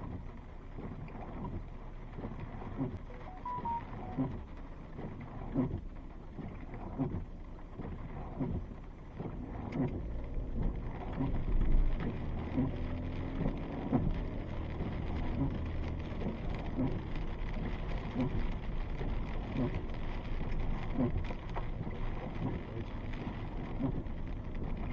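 Thunderstorm rain and gusting wind, with scattered taps of drops and wind buffeting the microphone; the low rumble of the wind grows louder about ten seconds in.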